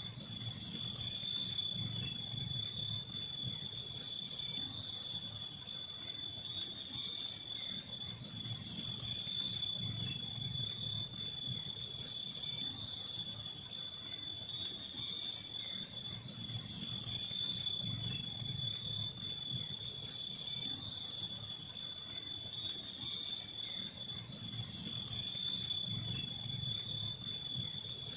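Crickets and other night insects trilling in a steady, unbroken high chorus. A low rumble swells and fades about every eight seconds beneath it.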